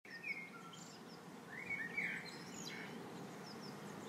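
Small birds chirping in short, scattered calls over a faint steady low hum of background noise.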